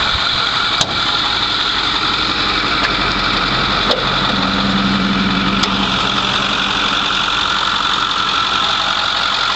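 A 6.4-litre Power Stroke twin-turbo V8 diesel idling steadily, with three sharp clicks over it. A low steady tone sits on top of the idle for a few seconds near the middle.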